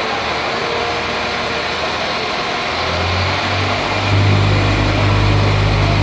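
CAF-built NI Railways diesel multiple unit pulling away, its underfloor diesel engines powering up. A steady background rumble at first, then about three seconds in a deep, steady engine drone comes in and gets louder a second later as the train accelerates.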